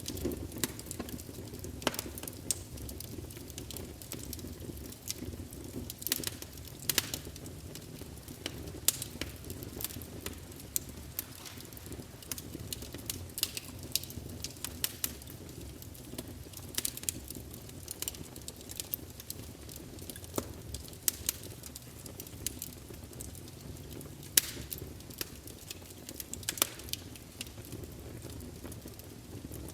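Wood campfire burning: a steady low rumble of flames with frequent irregular crackles and sharp pops from the burning wood.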